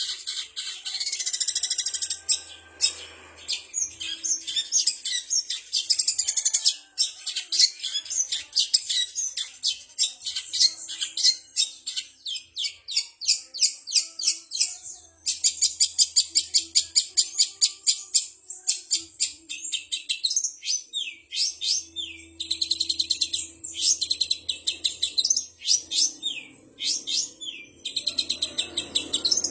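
Small songbirds singing a fast, chattering song of high chirps and trills, with brief pauses about halfway and near the end.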